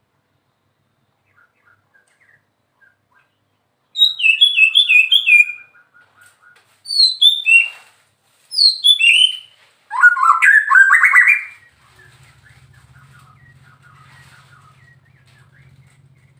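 White-rumped shama (murai batu) singing: starting about four seconds in, four loud song phrases of quick falling whistles, the last a lower, rattling trill. A faint low hum follows.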